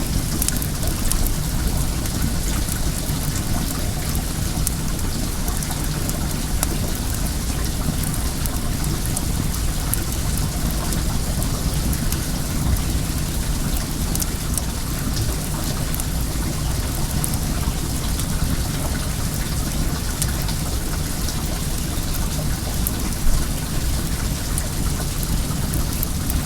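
Steady rush of running well water with faint crackling of a wood bonfire over it, and one louder thump near the end.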